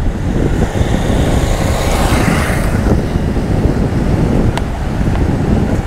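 Wind buffeting the microphone: a loud, steady low rumble with a rushing hiss, strongest about two seconds in.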